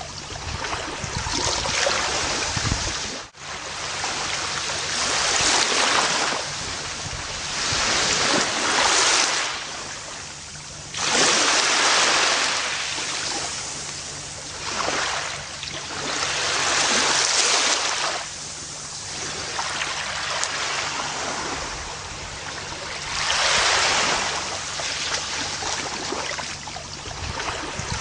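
Gentle ocean waves washing onto a beach, each surge swelling and then fading every few seconds. There is a brief sudden dropout in the sound about three seconds in.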